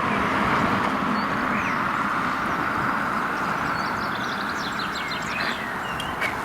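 Small birds chirping in quick runs about four to five seconds in and again near the end, over a steady rushing background noise; a single click just before the end.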